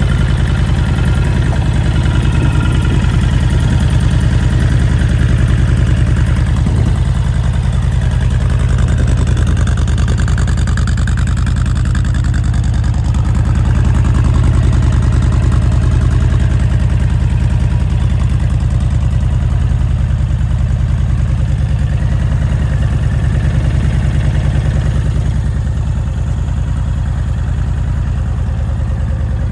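2019 Honda Fury's V-twin engine idling steadily through its stock exhaust, a deep, even pulsing that eases off slightly near the end.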